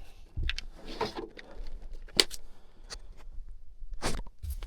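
Scattered light knocks, clicks and rustling as a person shifts and lies down on his back, handling tools and equipment, with one sharper click about two seconds in.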